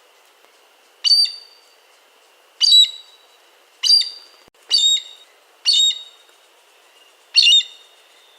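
A bird giving six short, sharp calls, about one every second or so, over a faint steady high hum.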